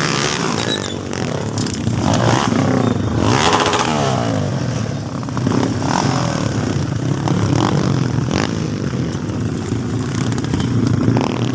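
Motocross dirt bikes racing, engines revving hard, with one bike passing close about three seconds in, its pitch rising and then falling.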